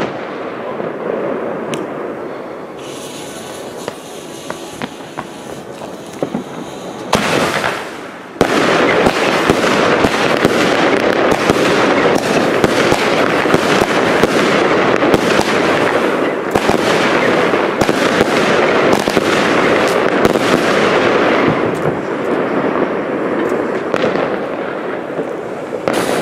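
Consumer firework battery going off: a single loud burst about seven seconds in, then a dense, continuous rattle of shots and crackling bangs for some thirteen seconds, which eases off near the end.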